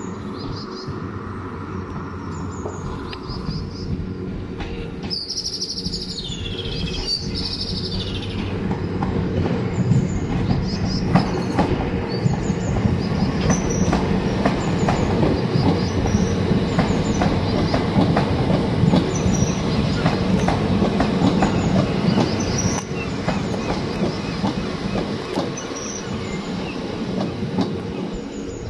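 A multiple-unit passenger train approaches and passes close by, its steady running hum building to a peak in the middle and easing off near the end. A high wheel squeal that falls in pitch comes about five seconds in, followed by rhythmic clicking of the wheels over the rail joints as it goes by.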